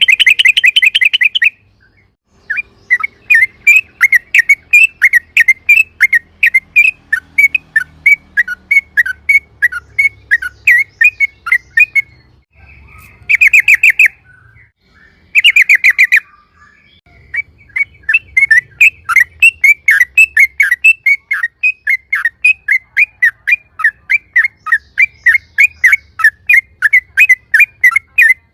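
Yellow-vented bulbul (trucukan) singing a long, loud run of quick chirping notes, a few a second. Short rapid trills break in at the start and twice midway.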